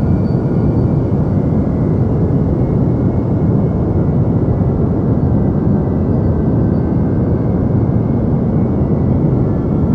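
Deep white noise played as a sleep sound: a steady, even low hiss, heaviest in the bass and dark in the treble, with no rhythm or changes.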